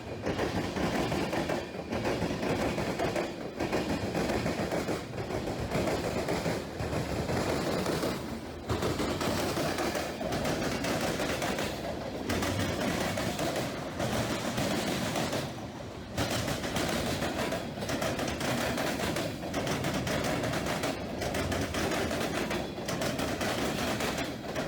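HO scale model train running on the layout: a steady, rapid rattling clatter that dips briefly about every second and a half to two seconds.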